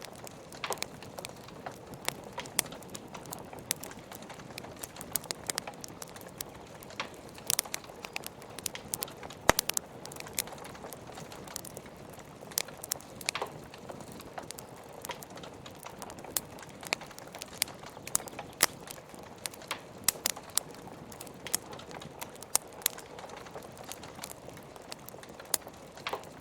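Wood fire crackling, with frequent irregular sharp pops and snaps (one louder pop about nine and a half seconds in), over a steady hiss of rain.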